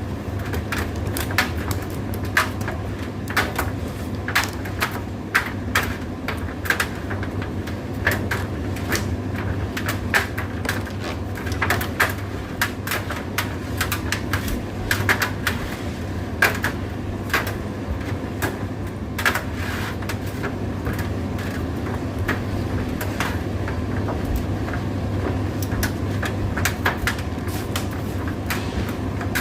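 Indesit IDC8T3 condenser tumble dryer running: a steady low motor hum with irregular clicks and knocks from the load tumbling in the drum.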